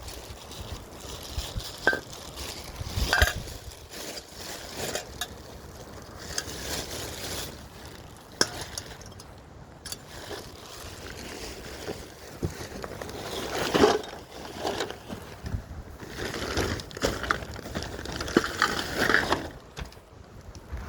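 Irregular knocks, clicks and rustling of things being handled, with an occasional clink.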